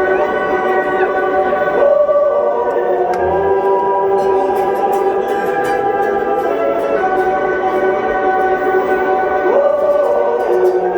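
Live music: several voices holding long chords in harmony, moving to a new chord about every five seconds with short slides between them.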